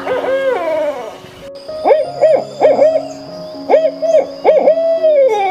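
Owl hooting: a series of short calls that rise and fall in pitch, several in quick succession, with a longer call that slides down in pitch near the end.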